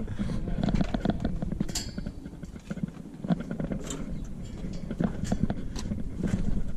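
Irregular knocks, thumps and scraping of items being handled and shoved around in the back of a van.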